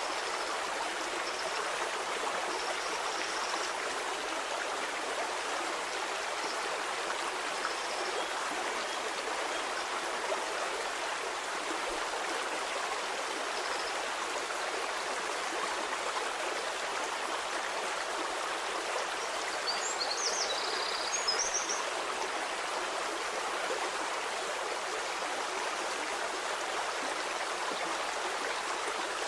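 Stream water flowing steadily over stones in an even, continuous rush. A few faint short high chirps sit above it, with a brief cluster about twenty seconds in.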